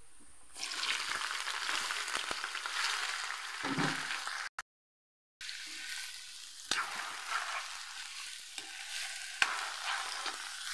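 Julienned chayote strips frying in hot oil with shallots and garlic in an aluminium pan: a steady sizzle stirred with a spatula, which knocks and scrapes against the pan now and then. The sizzle starts up loud about half a second in, breaks off briefly before the middle, and comes back a little quieter.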